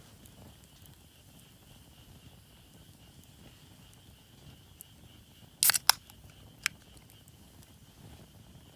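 A quick cluster of sharp wood cracks a little past the middle and a single crack about a second later, over a faint steady high-pitched drone.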